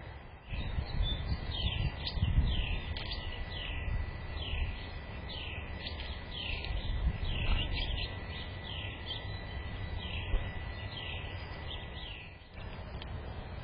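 A bird calling in a long, evenly paced series of short descending notes, about two a second, that stops shortly before the end. A low rumble runs underneath, with a faint steady whine.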